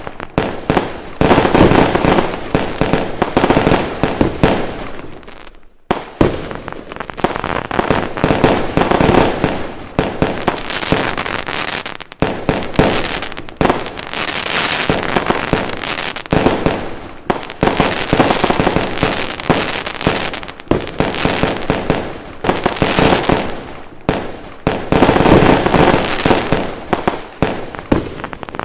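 Fireworks going off in a dense, continuous barrage of bangs and crackling, with a short lull about six seconds in.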